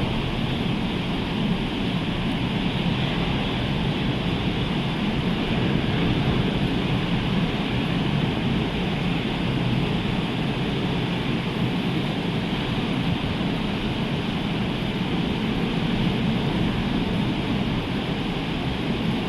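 Rough sea surf washing steadily and without a break, with wind buffeting the microphone.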